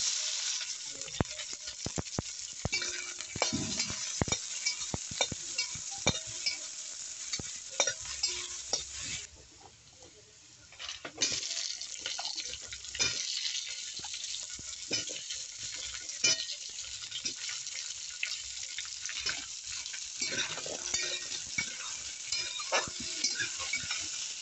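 Onions and potatoes frying in hot oil in a metal kadhai: a steady sizzle, with a metal spatula scraping and clicking against the pan as it stirs. The sizzle and stirring drop away for about two seconds near the middle, then resume.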